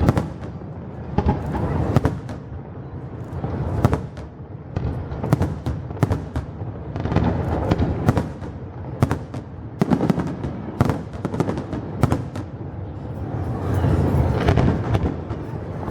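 New Year's fireworks bursting: a rapid, irregular series of sharp bangs and cracks over a continuous low rumble of shell bursts.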